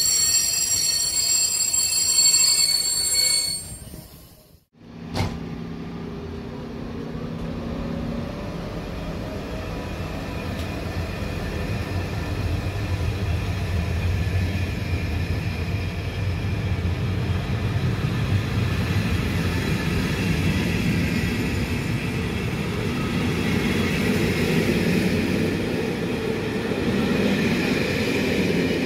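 Train wheels squealing in several high tones, breaking off suddenly about four seconds in. A train then runs by with a steady low rumble that slowly grows louder.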